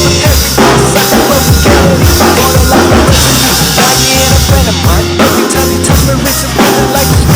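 Drum kit played live along to a backing track with a steady bass line: a busy pattern of bass drum, snare and rimshot hits.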